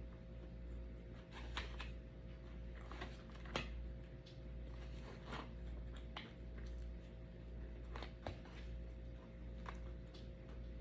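Eating sounds: scattered soft mouth clicks and smacks of chewing, with a few sharper clicks, over a steady low hum.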